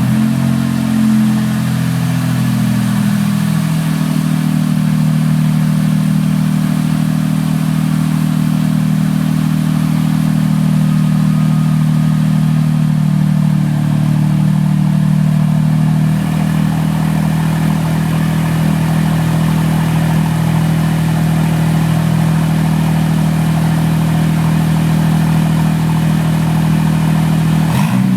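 Smart Roadster's small three-cylinder turbo engine idling through an Akrapovic carbon exhaust. It has just started; the idle runs a little higher for the first few seconds, then settles and holds steady.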